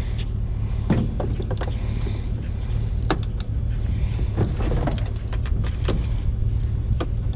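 A motor vehicle running with a steady low rumble, with frequent short rattles and clicks throughout.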